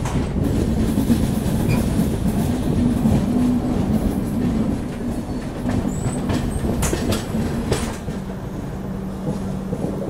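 Passenger train running on the track, heard from the open door of a moving coach: a steady wheel-and-rail rumble with a low hum, a brief faint high squeal about six seconds in, and a run of sharp clicks from the wheels over joints and points just after.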